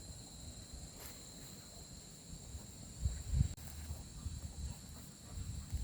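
Insects trilling steadily in two even high tones, with a few low thuds about three seconds in.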